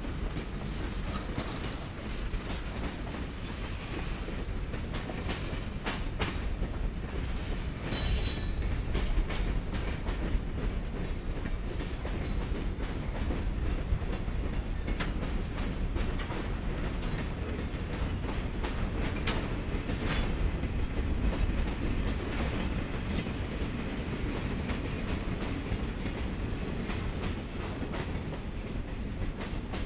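Freight cars rolling past close by, a steady low rumble with clickety-clack of the wheels over the rail joints. Short high-pitched metal squeals break in about eight seconds in and again about fifteen seconds later.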